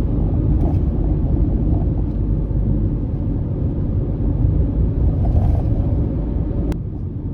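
Car driving on a road: steady low rumble of tyres and engine. A single sharp click comes about seven seconds in.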